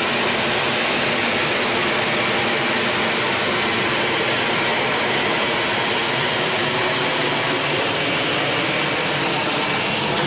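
Jet aircraft engine noise: a loud, steady, even rush with a faint high whine over it, unchanging throughout.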